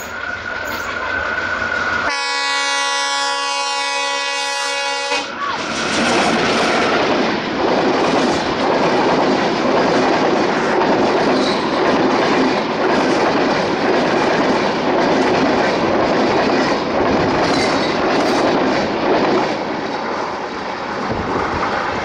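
A diesel locomotive sounds its horn in one blast of about three seconds, starting about two seconds in. Then the express train's passenger coaches pass close by at speed, the wheels clattering on the rails. The rumble eases off a couple of seconds before the end.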